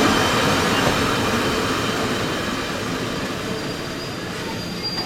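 A train running along the track, its rail and wheel noise steady at first and slowly fading as it moves away.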